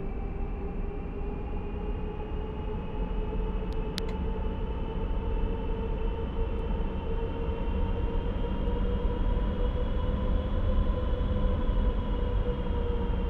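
Jet airliner's turbofan engines with a steady multi-tone whine over a low rumble, the whine slowly rising in pitch and growing louder toward the end as the aircraft comes closer.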